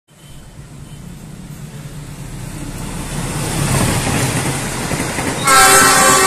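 A train approaching, its running noise growing steadily louder, then its horn sounding near the end, several tones at once.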